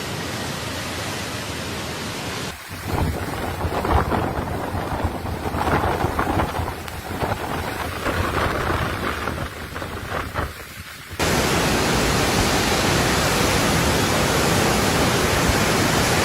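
Strong wind and heavy rain of a tropical cyclone, heard in three spliced clips: a steady rush, then from about two and a half seconds in a gusty stretch that rises and falls, then from about eleven seconds in a louder, steady rush.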